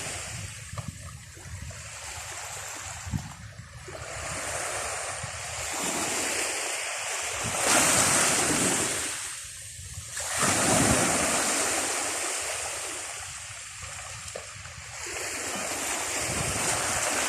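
Pacific Ocean surf washing up the beach, rising and falling in slow surges, the biggest two breaking about halfway through.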